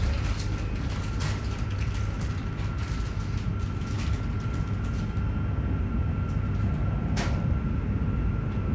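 Interior running sound of a JR Hokkaido 731 series electric train car, MoHa 731-109, under way: a steady low rumble of the motors and wheels with a thin steady whine above it, broken by a few sharp clicks from the track. The low roar comes from the car whose Otaru-end bogie motor makes an abnormal, nose-suspended-motor-like roar.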